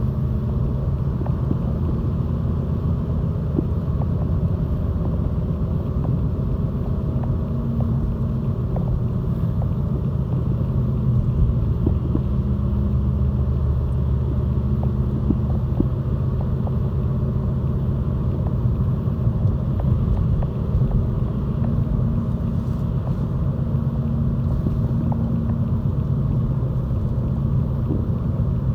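2011 Volvo S60 D3's 2.0-litre five-cylinder diesel engine running at a steady, unchanging pitch, a low rumble.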